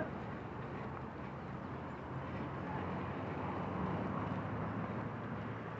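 Outdoor ambience with a steady low engine hum.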